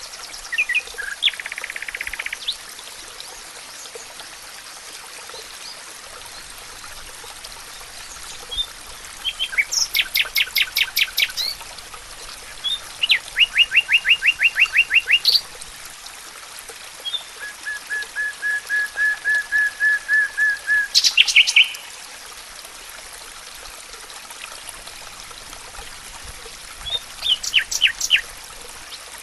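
Songbirds singing in a forest: several bursts of rapid, evenly repeated high notes, including a long even trill about two-thirds of the way through, over a faint steady hiss.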